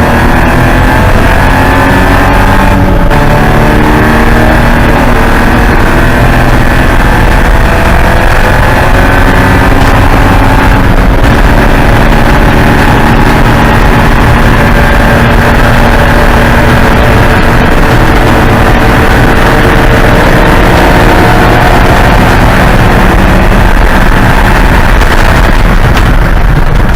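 Porsche 944 Spec race car's four-cylinder engine running hard and loud at racing speed, its pitch rising and falling with throttle and gear changes, with a couple of brief dips that sound like gear changes.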